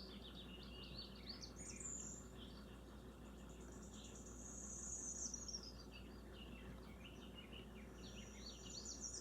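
A pet bird chirping and twittering in quick trills, with a longer high warbling phrase about four to five seconds in.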